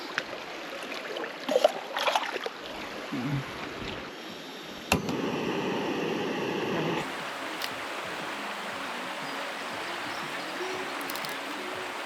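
Steady rushing of a river. A few clicks and knocks of handling come in the first seconds, and a sharp click near five seconds starts a louder stretch of rushing that drops back to an even, quieter rush about two seconds later.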